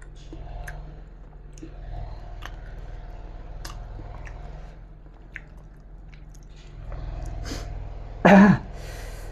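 Close-up chewing of jengkol (dog fruit) rendang and rice eaten by hand, with scattered small wet mouth clicks over a low steady hum. Near the end there is a short, loud vocal sound.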